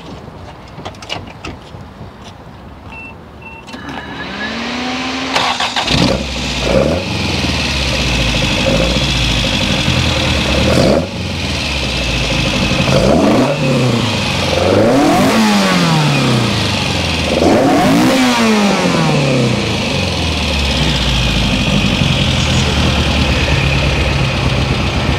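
A built Toyota 3TC 2.0-litre four-cylinder on side-draft carburetors in a 1977 Corolla starts about four seconds in. It is revved in several quick blips, each rising and falling in pitch, then settles into a steady idle.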